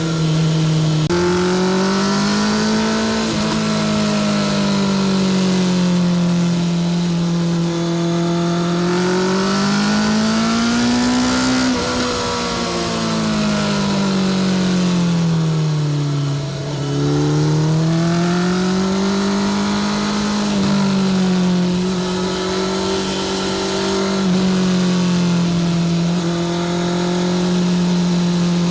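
Honda CBR650R inline-four through a Spark full titanium exhaust, ridden at speed: the engine note climbs and falls several times as the throttle is opened and eased, dipping briefly about two-thirds of the way through before climbing again and then holding steady.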